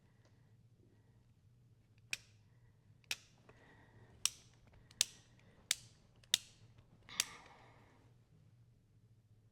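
About seven sharp metal clicks and taps, irregularly spaced a second or less apart, from leather hole-punch tools being handled and tried against the belt's holes.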